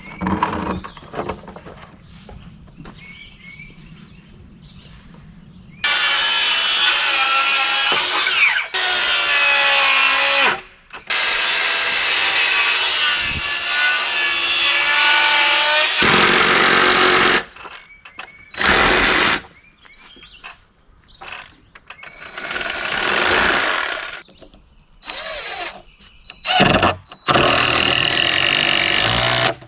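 Power tools working wood in several separate loud bursts, starting about six seconds in after a quieter opening.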